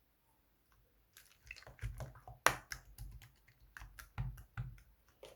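Jelly-cleaner slime being squeezed and poked by hand, giving irregular sticky clicks and pops that start about a second in, the loudest pop about halfway through.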